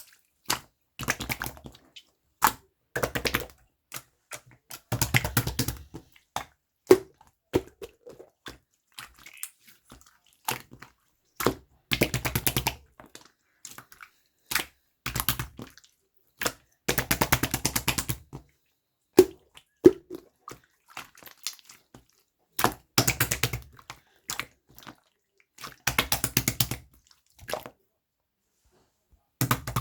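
Slime being squeezed and pressed by hand, making bursts of sticky clicking and crackling pops, each a second or two long, with short silences between.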